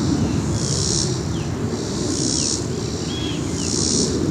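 Deep, steady rumbling of a large departing jet airliner. Insects buzz in regular pulses about every second and a half above it, with a couple of faint bird chirps.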